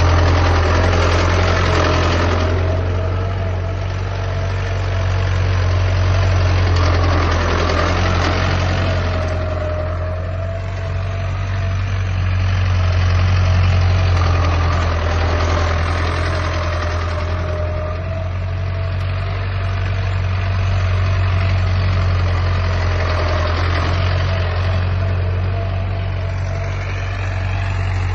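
Tractor diesel engine running steadily with a deep hum, the sound swelling and fading every six or seven seconds.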